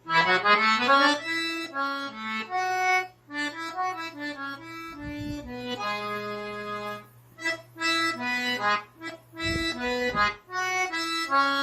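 Accordion playing a forró melody as a run of separate single notes over a steady low hum, with low bass notes coming in twice: about five seconds in and again near the end.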